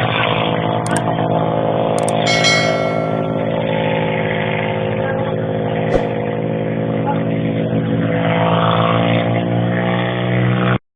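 Lifeboat's diesel engine running steadily, with a few sharp clicks and a metallic clang that rings briefly about two seconds in.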